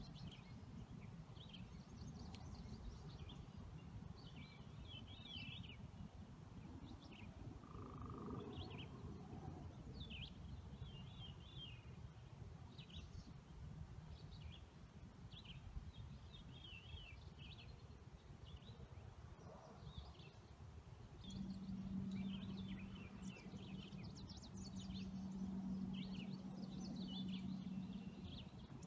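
Faint bird chirps and short trills, repeating on and off, over a low rumble. A steady low hum joins about three-quarters of the way through.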